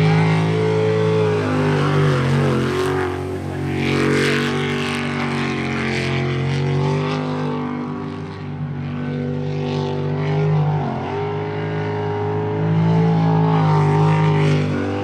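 Sprint jet boat's engine running hard on a timed run, its pitch rising and falling repeatedly as it is throttled through the course's turns, with bursts of hiss about three to five seconds in.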